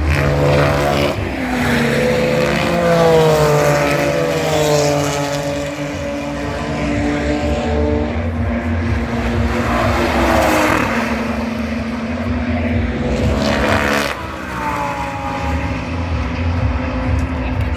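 GT race car engines running hard, their note falling and rising in pitch several times, with sudden changes about eleven and fourteen seconds in.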